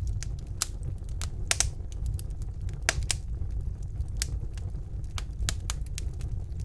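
Wood fire burning in a fireplace: irregular sharp crackles and pops over a low steady rumble of the flames, with the loudest pops about a second and a half and three seconds in.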